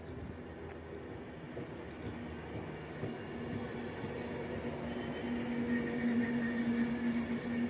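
Avanti West Coast Class 390 Pendolino electric train drawing into the platform: a steady electric hum over a low rumble, growing louder through the second half, with a higher whine briefly about six seconds in.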